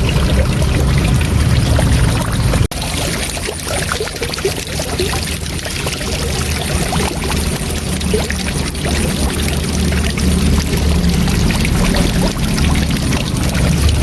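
Waterfall: a steady rush of falling water with a deep rumble beneath it, briefly cut out for a split second near three seconds in.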